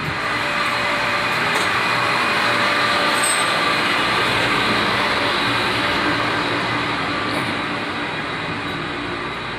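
Steady mechanical running noise with a low hum through it, swelling over the first few seconds and slowly easing off toward the end.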